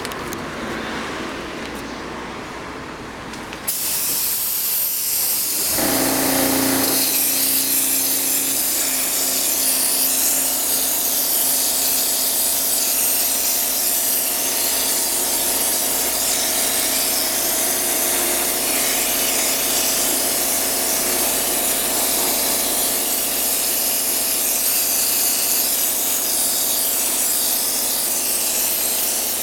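High-pressure washer jet spraying during a commercial air conditioner cleaning: a steady loud hiss that starts suddenly about four seconds in, with a steady motor hum joining about two seconds later.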